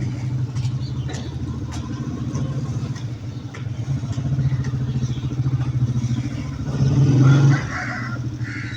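An engine running steadily, swelling louder for a moment about seven seconds in, with a few sharp clicks near the start.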